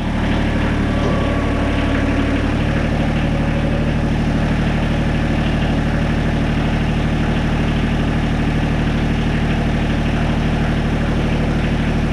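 Kubota KX91-2 mini excavator's diesel engine running steadily, a low even drone whose note shifts slightly about two and a half seconds in.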